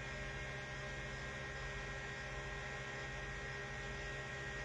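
Steady electrical hum with a constant hiss, unchanging throughout, with no distinct events.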